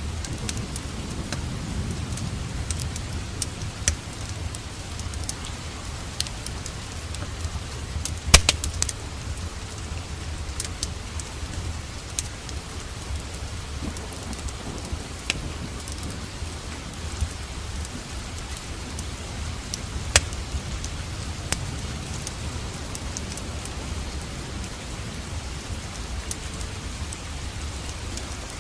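Steady rain falling, with a low rumble under it and scattered sharp pops and crackles from a burning fireplace fire, the loudest few together about eight seconds in and another about twenty seconds in.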